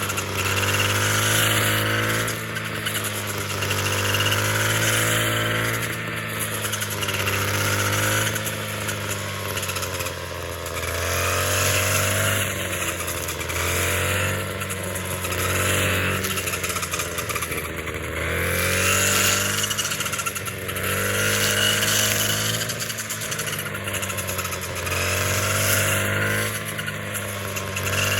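A small engine running steadily, its pitch and loudness rising and falling in a regular cycle about every two seconds.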